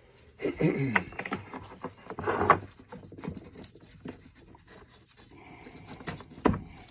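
Work light being moved and set up by hand: rubbing, scraping and small clicks, with a sharp knock near the end.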